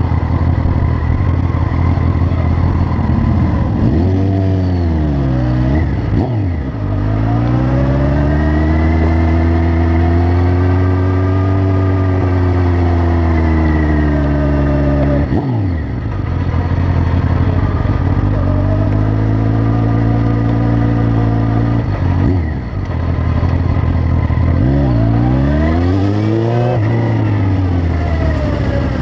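Honda CB900F (919) inline-four motorcycle engine and exhaust under way, its pitch climbing and falling with the throttle. The note drops sharply several times as the rider shifts or rolls off, then climbs again.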